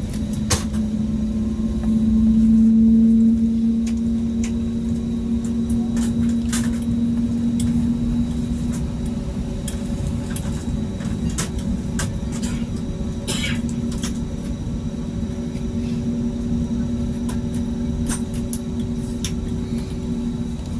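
Airbus A320neo cabin noise while taxiing: the engines running at low thrust under a steady rumble and hum, which swells for a moment about two seconds in. Light clicks and rattles from the cabin are scattered through it.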